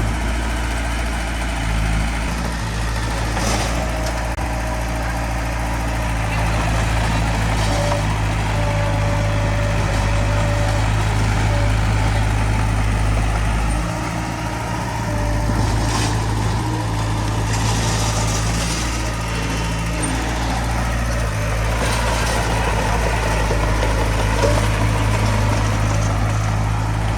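Diesel engine of a small crawler bulldozer running steadily under work, with a deep, even drone and a couple of brief clanks, about 3.5 and 16 seconds in.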